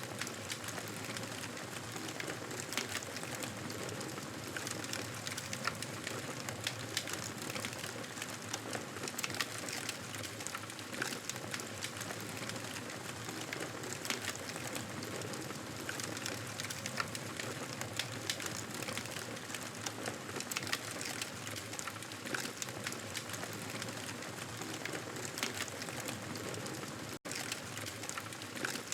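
Wood fire crackling in a fireplace: a steady hiss with frequent irregular pops and snaps. The sound cuts out for an instant near the end.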